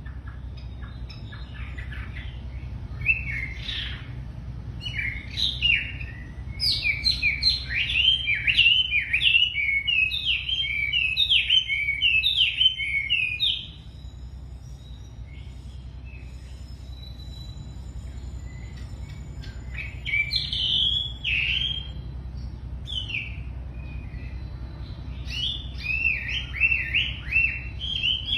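Wambi songbird singing in fast runs of short, falling chirps, in long busy strings with a quieter stretch of scattered notes midway, over a steady low hum.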